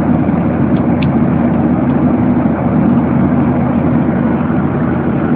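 Steady cabin noise of a Boeing 737-800 in flight: an even rush of engine and airflow with a constant low hum.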